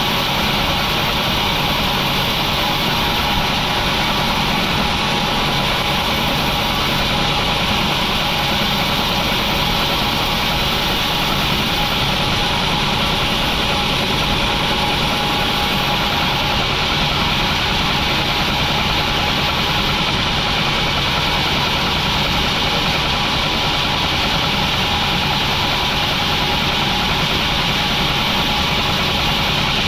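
Industrial sawmill machinery running with a steady, unchanging hum.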